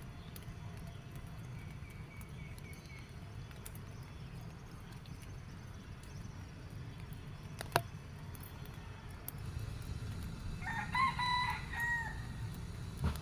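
A rooster crows once, a pitched call of about a second and a half near the end, over a steady low background rumble. A single sharp click comes about halfway through.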